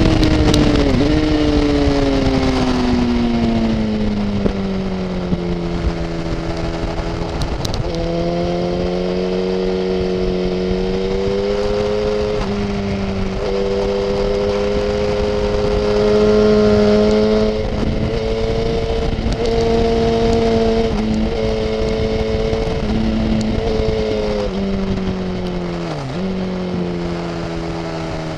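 Motorcycle engine heard from a camera mounted on the bike, over wind rush. The revs fall steadily over the first few seconds as it slows for a corner. They then hold fairly steady, with small rises and falls, through long leaning bends, and dip briefly and pick up again near the end.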